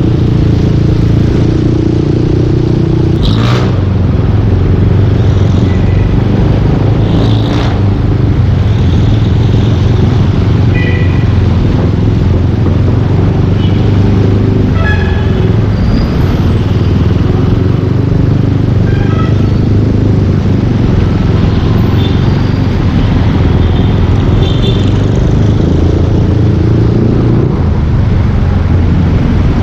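Yamaha Aerox 155 V2 scooter engine running through a full Yoshimura aftermarket exhaust while riding, a steady deep drone that dips in pitch about three seconds in and picks up again near the end. A few brief higher tones from the surrounding traffic cut through now and then.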